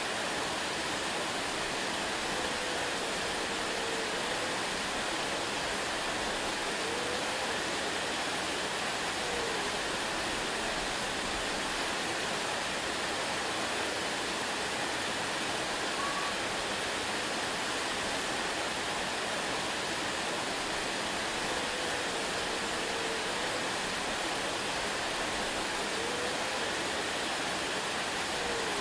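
Waterfall: steady, unbroken rush of falling water. A few faint short pitched notes come and go over it at intervals.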